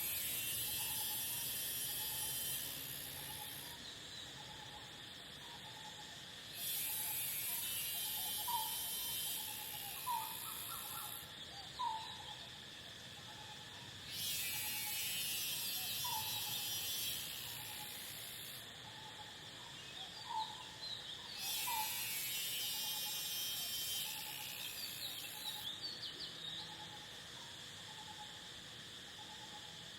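Summer field ambience: a steady cricket trill with a louder, higher insect buzz that swells in for a few seconds at a time, four times. Underneath, one bird repeats a short low note about every second, and another gives short rising calls now and then.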